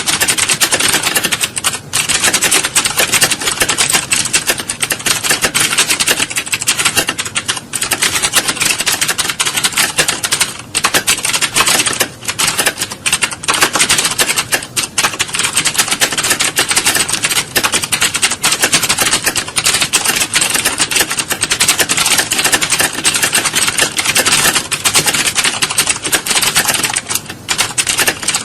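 Continuous fast typing on computer keyboards, a dense clatter of keystrokes with a few brief pauses.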